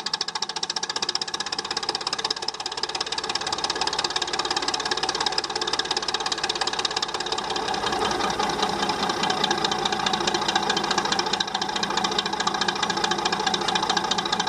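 Vintage Lister JP3 three-cylinder diesel engine running steadily with a rapid, even mechanical clatter.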